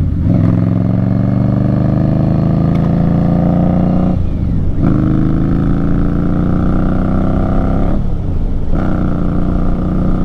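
2018 Indian Scout Bobber's V-twin running through Vance & Hines slash-cut mufflers while it is ridden, pulling up through the gears. The engine pitch climbs steadily, then breaks and drops for an upshift right at the start, about four and a half seconds in, and again at about eight and a half seconds.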